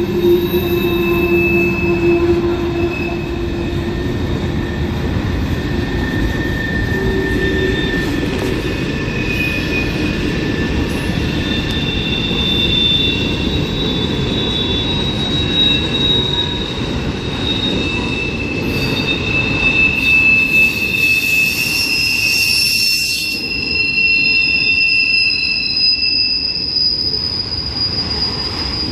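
Freight train cars rolling past with a steady rumble of steel wheels on the rails. High-pitched wheel squeal comes and goes throughout.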